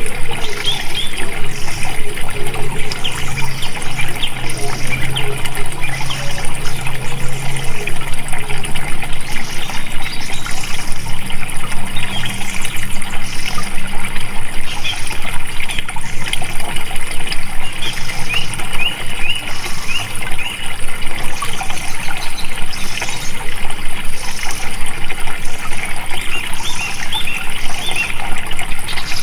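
Water flowing steadily, with birds chirping repeatedly over it.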